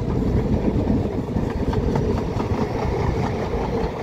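Tyne and Wear Metro train of two coupled Metrocars pulling away from the platform and running past close by, with a steady low rumble of wheels on rail.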